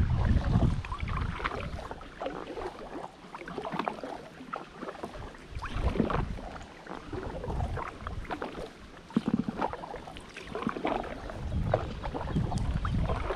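Kayak paddle dipping and pulling through the water, with splashes and drips every second or two. Wind rumbles on the microphone at the start and again near the end.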